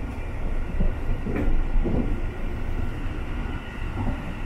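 Running noise of the Sunrise Izumo sleeper train, a 285 series electric multiple unit, heard from inside the carriage: a steady low rumble with a couple of light knocks about a second and a half in.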